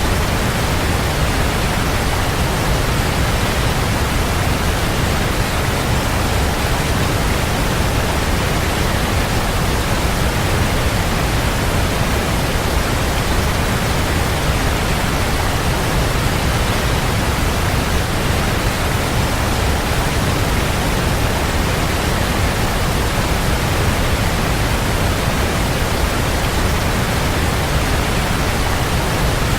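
Waterfall: water falling and splashing, a steady full rushing noise that does not change.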